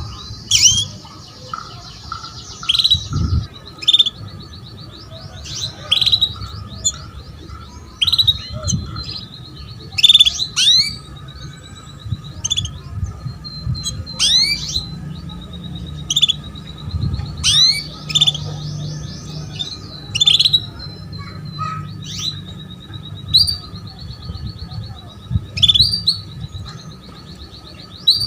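Female canary calling: sharp chirps falling in pitch, repeated every second or two, with short buzzy trills between them. This is the call a hen uses to draw a male canary into song.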